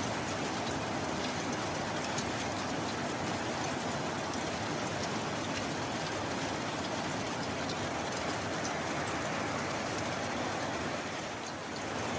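Steady heavy rainfall, an even hiss with scattered individual drops ticking through it, easing briefly a little before the end.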